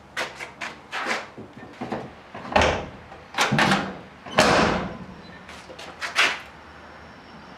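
Driver's door of a 1985 GMC squarebody pickup being worked and shut on its new hinge pins: a run of metal clicks and knocks, with two heavier door thuds about two and a half and four and a half seconds in.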